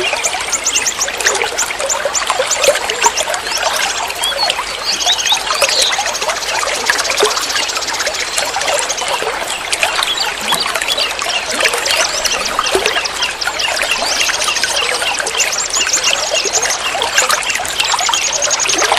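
Water trickling and splashing continuously, as in a small stream or fountain. Over it, bursts of very fast, high-pitched trills of small birds come and go several times.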